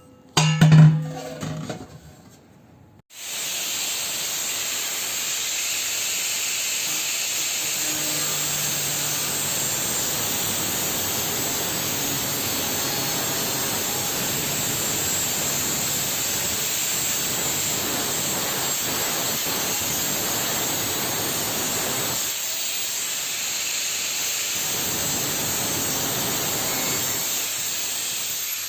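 Angle grinder cutting a metal chimney pipe section to length at a marked line: a loud, steady, hissing grind that starts about three seconds in and keeps on without a break.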